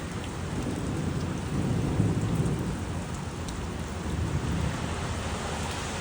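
Rain falling steadily with low rolling thunder rumbling underneath, swelling about two seconds in and again a little later.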